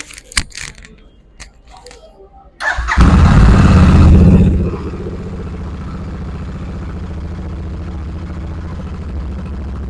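Royal Enfield Super Meteor 650's 648 cc parallel-twin engine started up after a few clicks: it catches about three seconds in with a loud burst of revs, then settles into a steady low idle through the exhaust.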